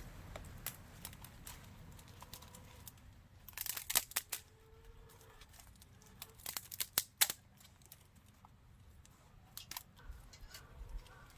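Two short bursts of crinkling, tearing sounds, about 4 and 7 seconds in, with scattered small clicks between them.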